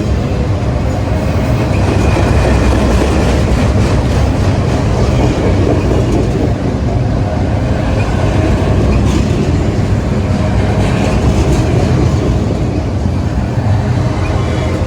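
A train passing close by: a loud, steady rumble of wheels on the rails, with wheels clicking over rail joints.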